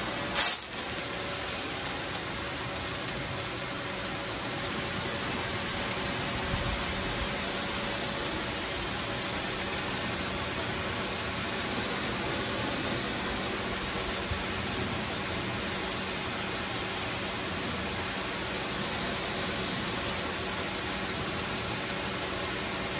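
VEVOR electric pressure washer spraying through its 15-degree nozzle: a steady hiss of the water jet over a steady hum from the pump, cutting off abruptly near the end.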